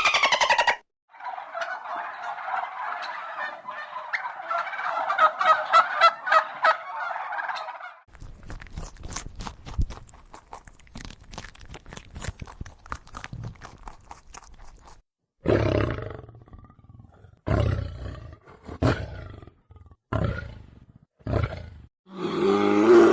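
A run of different animal calls: first a dense, fast chattering, then a stretch of sharp crackling clicks, then several separate loud, low-pitched calls, each about a second long or shorter.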